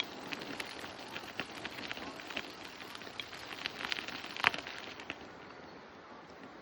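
A bicycle on the move: a steady rolling hiss with many small, irregular clicks and crackles, one sharper click about four and a half seconds in, and the clicks thinning out near the end.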